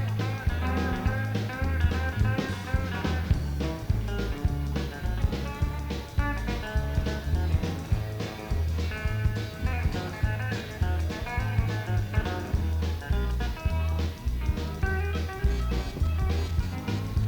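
Country band playing an instrumental break: a bass guitar walking back and forth between low notes under a steady drum beat, with electric and pedal steel guitars carrying the melody.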